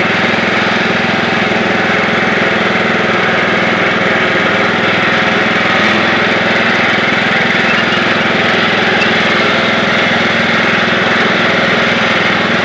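Craftsman YT3000 riding lawn tractor's engine running steadily at top speed while the tractor drives along. The owner suspects a blown head gasket in this engine.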